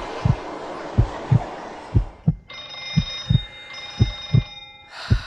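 Heartbeat thumping in lub-dub pairs about once a second. About two seconds in, a background hiss cuts off and a steady high ringing tone of several pitches starts, breaking briefly before it stops near the end.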